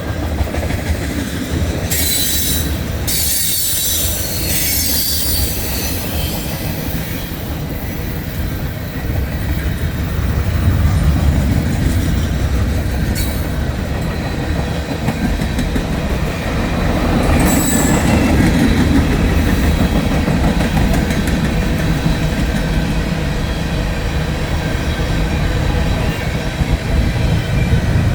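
Freight cars of a Norfolk Southern mixed manifest train rolling past, a steady heavy rumble with clattering wheels, and brief high-pitched wheel squeals about two seconds in and again around 17 seconds in.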